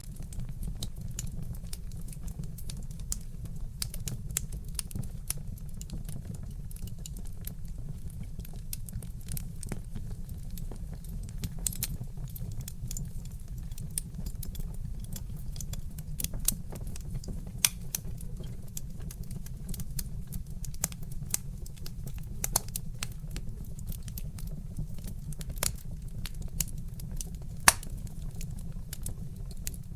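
Wood fire crackling, with a constant scatter of small sharp snaps and a few louder pops, over a steady low rumble.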